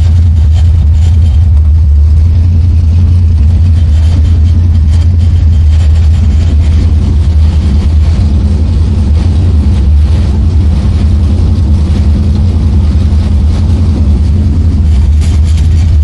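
1968 Plymouth Road Runner's V8 engine running loudly and steadily, with a deep low rumble, its exhaust not yet done.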